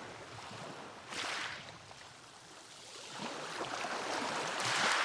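Sea waves washing in: a short surge about a second in, then a larger wave swelling to its loudest near the end.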